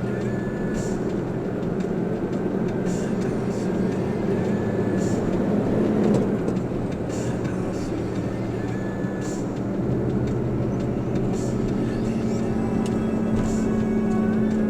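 Steady vehicle engine hum and road noise heard from inside the moving vehicle, with a faint tick about every two seconds.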